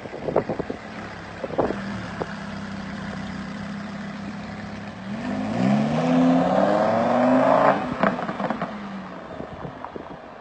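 Lamborghini Huracán's V10 engine idling, then revved up twice with its pitch climbing before dropping back toward idle. A few clicks sound near the start.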